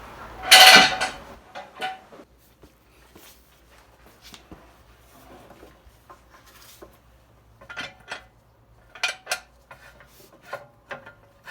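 Steel jack stand being set in place under a raised car: one loud metal clank with a ring about a second in, then scattered lighter clinks and knocks, bunched again near the end.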